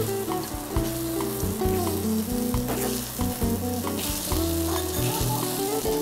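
Takoyaki sizzling in a hot takoyaki pan as the balls are turned, a steady frying hiss. Background music with a stepped melody and bass line plays under it.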